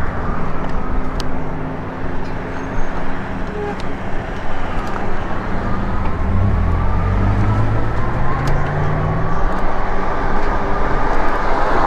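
Road traffic heard from a moving e-bike: motor vehicle engines running nearby over a steady rushing noise. About six seconds in, one vehicle grows louder and rises in pitch as it passes.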